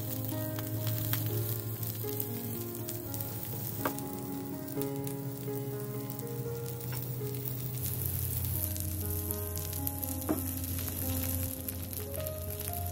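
Cabbage wedges sizzling as they sear in oil in a nonstick pan, a steady frying hiss with two sharp clicks, about 4 and 10 seconds in. Soft melodic background music plays under it.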